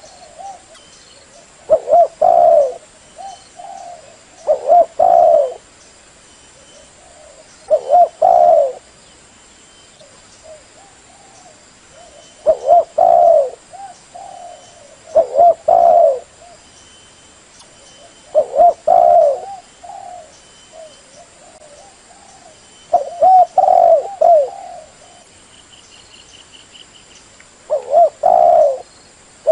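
Female spotted dove cooing: short phrases of low coos, a new phrase every two to four seconds with a few longer pauses. It is the hen's call that bird keepers and trappers play to stir up male doves.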